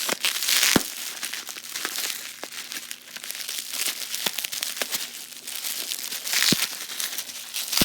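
Packaging crinkling and rustling as it is handled and pulled open, with a few sharp clicks among the rustling.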